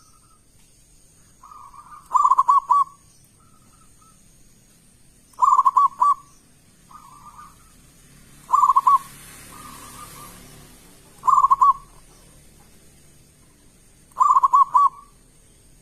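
A zebra dove (perkutut) singing its cooing song: five short, quick stuttering phrases, about one every three seconds.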